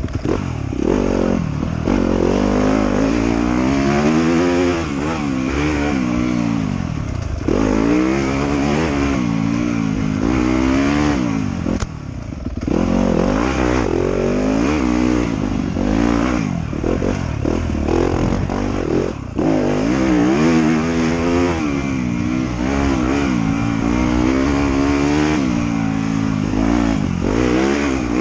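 Motorcycle engine on a trail ride, revving up and falling back again and again as the throttle opens and closes, with short throttle chops about twelve and nineteen seconds in.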